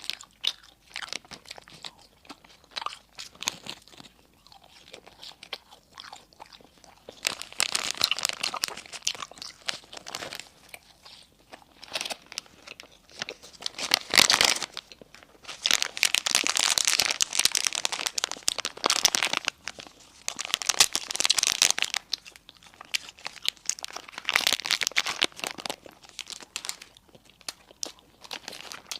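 Close-miked eating: crunchy bites and chewing of food, with spells of dense crinkling like a paper or plastic food wrapper being handled. It starts with scattered small crunches and clicks, then comes in several long crackly stretches.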